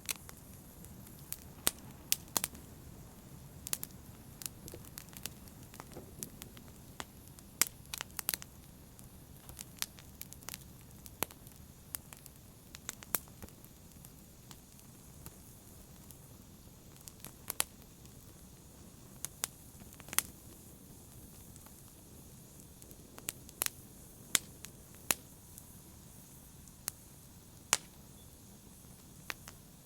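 Wood fire burning in a fireplace: a steady low hiss with frequent sharp, irregular crackles and pops.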